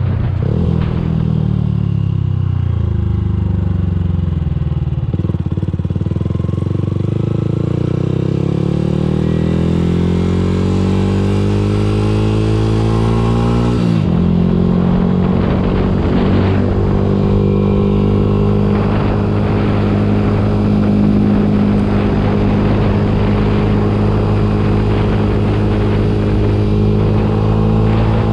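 Yamaha YZF-R125's 125 cc single-cylinder four-stroke engine through its exhaust: the revs sink for the first few seconds, then climb steadily for about nine seconds. They drop suddenly about halfway through, then hold high and steady.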